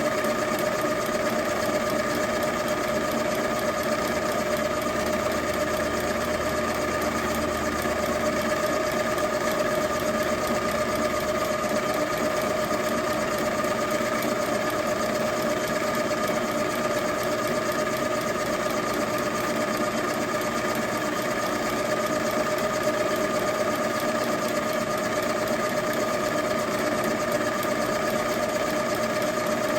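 Milling machine spindle running steadily with a constant whine while drilling out the stripped fuel-inlet threads of a carburetor for a thread insert.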